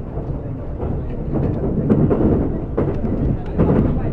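Cabin running noise of a Kintetsu 50000 series Shimakaze electric train at speed: a steady low rumble of wheels on rail that swells louder about one and a half seconds in, with a few brief surges.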